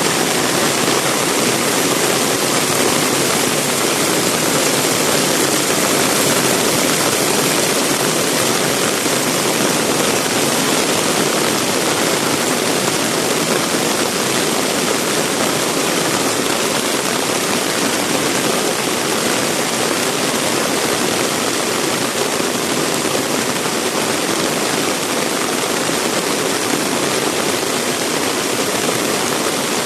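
Heavy rain pouring steadily: a loud, dense, even hiss without let-up.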